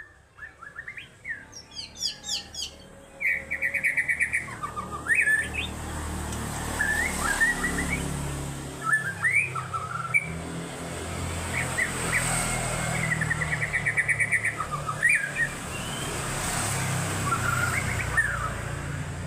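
White-rumped shama singing: a string of short, varied whistled phrases broken by rapid trills, over a steady low hum.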